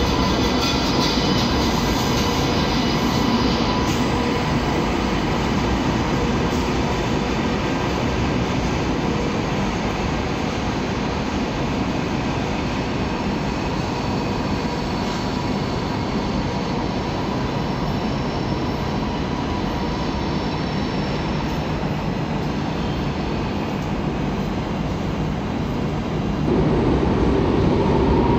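SNCF TGV inOui high-speed train arriving and rolling slowly along the platform of an underground station, a steady rolling rumble with a faint steady whine, echoing in the enclosed station. About 26 seconds in it grows louder as a Rodalies commuter train approaches.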